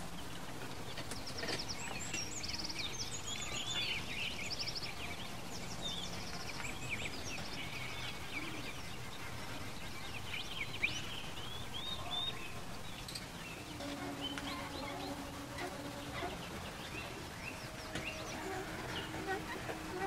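Birds chirping in the background: many short chirps, quick rising and falling calls and rapid trills, busiest in the first half. Later, two lower drawn-out calls are held for a second or two each.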